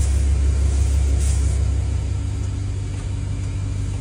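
Dodge 1500's V8 engine idling with a low steady rumble that eases somewhat about halfway through, with a short hiss about a second in.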